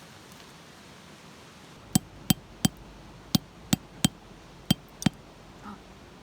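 A hammer driving a metal tent peg: eight sharp blows starting about two seconds in, about three a second with short pauses between groups, each with a brief metallic ring.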